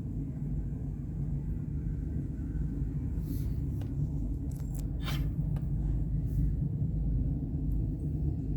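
Train passing close by: a steady low rumble, with a few short metallic clanks or squeaks in the middle.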